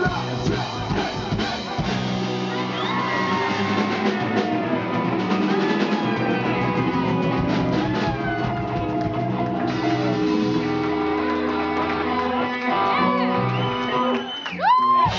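Rock band playing live, with guitars and drum kit, and a sliding guitar note near the end.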